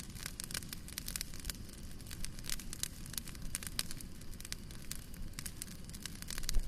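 Wood fire burning in a fireplace: a steady low rumble of the flames with irregular sharp crackles and pops, one louder pop near the end.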